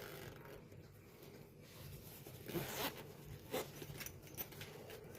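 A zipper on a fabric lunch bag being pulled open, faint, with a few short knocks and rustles of handling.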